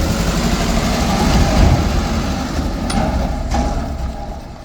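Truck engine running with a loud low rumble and rattling knocks, two short clicks around three seconds in, dying down near the end.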